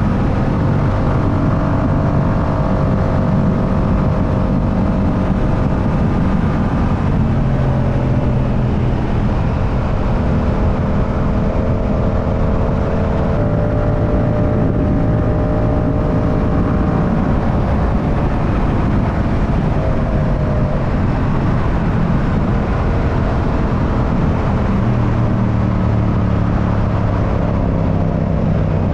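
Yamaha R7's 689 cc parallel-twin engine running at a steady riding pace under dense road and wind rumble, its pitch drifting gently up and down with small throttle changes.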